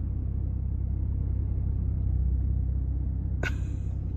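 Steady low rumble of a car idling, heard from inside the cabin, with one brief noise near the end.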